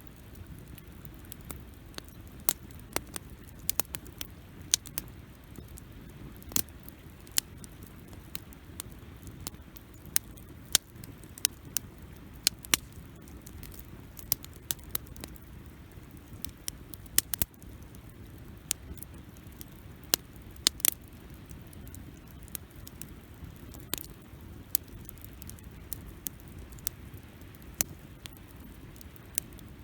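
Wood campfire burning, crackling with irregular sharp pops, several a second at times, over a low steady rumble.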